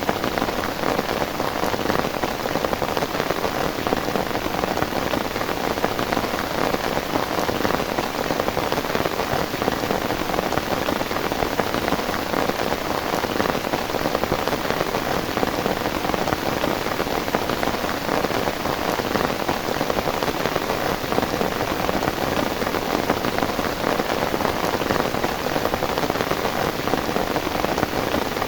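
Heavy rain falling steadily, an even, unbroken wash of rain noise.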